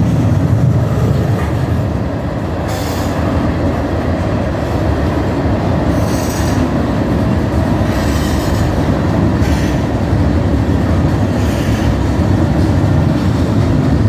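BNSF local freight train rolling on the rails: a steady low rumble, with short bursts of higher-pitched noise every two or three seconds.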